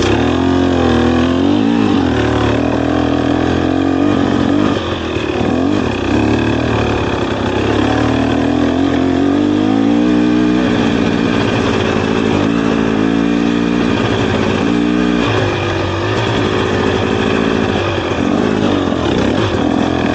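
Dirt bike engine running hard on a trail ride, its pitch rising and falling with the throttle, with brief dips in between.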